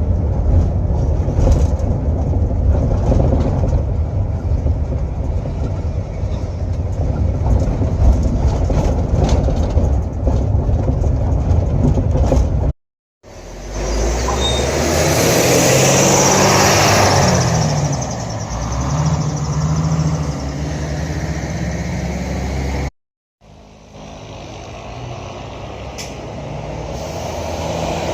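Coach bus on a highway: heavy engine and road noise in three short clips, each broken off by a sudden cut to silence. In the middle clip the engine note rises and falls as the bus speeds up and eases off, and the last clip builds steadily louder.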